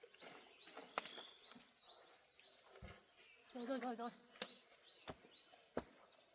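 Insects chirring in a steady, even, high-pitched drone, with a few sharp knocks scattered through.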